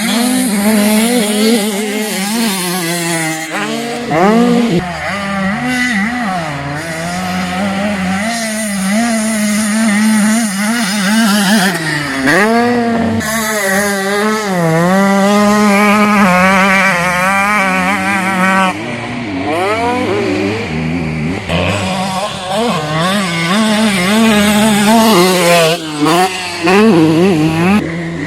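Several motocross bikes running at once, their engines revving up and down as they accelerate and shift, with overlapping engine notes rising and falling.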